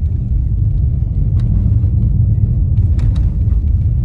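Steady low rumble of a car's tyres and drivetrain, heard inside the cabin while driving on a snow-covered road, with a few faint clicks about a second and a half and three seconds in.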